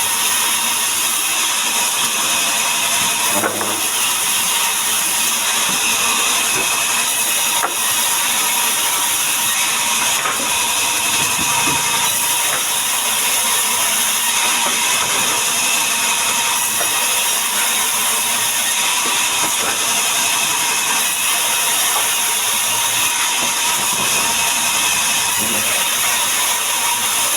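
Power saw running steadily while cutting wood, a dense hiss with a steady whine near 1 kHz.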